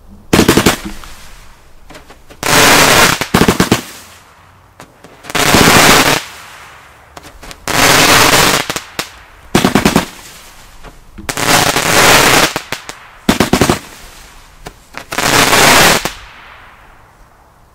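Daytime fireworks going off in eight volleys, each a half-second to one-second burst of rapid, crackling bangs, every couple of seconds.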